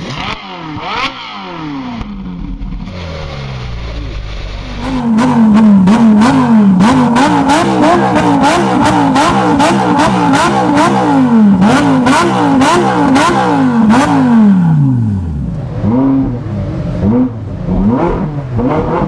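Supercar engines revving across a few cuts. A Ferrari 458's V8 is blipped a few times, then a Lamborghini Gallardo's V10, much louder, is revved over and over, rising and falling about twice a second with sharp cracks between the blips for about ten seconds. Near the end there are a few more separate revs.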